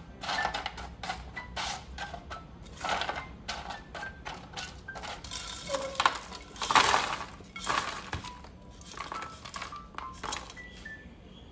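Irregular crunching and clinking of food and kitchenware being handled, the loudest burst about seven seconds in, over soft background waltz music.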